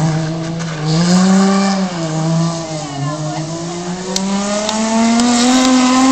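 Rally car engine accelerating hard through the gears: the pitch climbs, drops at a gear change about two seconds in and again about three seconds in, then rises steadily in the next gear.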